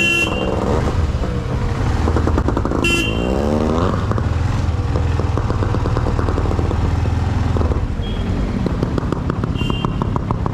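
Motorcycle engines running at idle, a steady low rumble that eases off about eight seconds in, with a few short horn toots.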